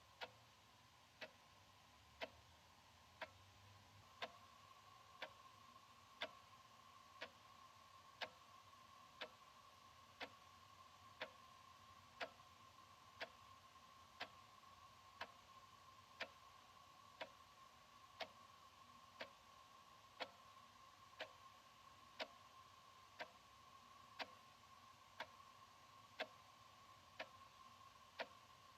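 Analog wall clock ticking steadily, one sharp tick each second.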